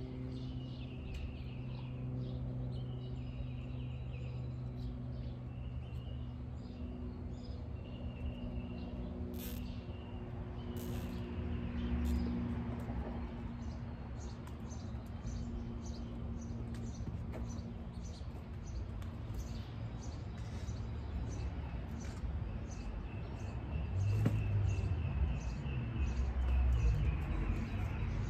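Birds chirping over a steady low hum, with outdoor background noise that grows a little louder near the end.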